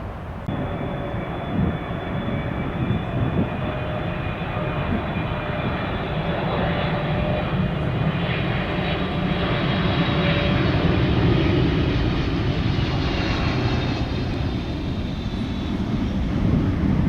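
KLM Boeing 777-300ER's twin GE90 turbofans at takeoff thrust: a steady high whine over a deep rumble, slowly growing louder as the jet comes by.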